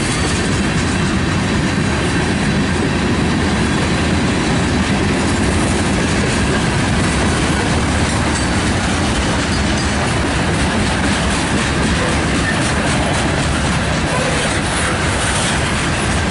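Freight cars of a mixed manifest train rolling past at close range: a loud, steady rumble of steel wheels on rail, with the clack of wheels over the rail joints.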